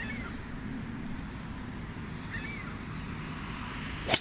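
Steady wind rumble on the microphone with two short bird chirps, then near the end a single sharp crack of a golf club striking the ball.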